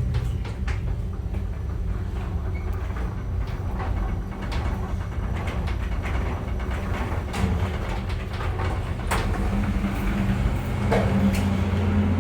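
Elevator aboard a car ferry running: a steady low rumble and hum with scattered clicks and rattles from the car. The hum grows louder near the end.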